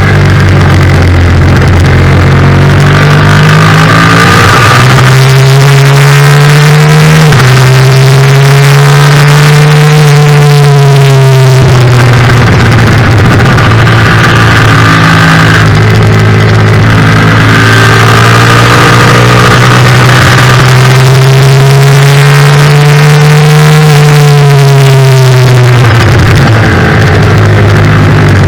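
Yamaha FZ-07 parallel-twin engine at racing speed under hard throttle. Its pitch climbs, drops sharply at an upshift about a quarter of the way in, then falls as the rider rolls off; the climb and roll-off happen again later. Loud wind rush runs throughout.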